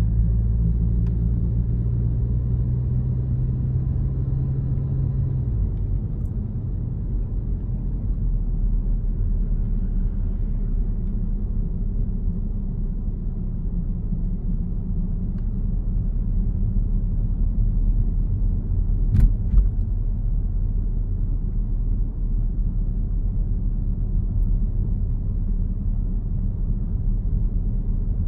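Car driving on a road: a steady low engine and tyre rumble. The engine's humming tone fades out about five seconds in, leaving the even road rumble, and there is one brief knock a little past halfway.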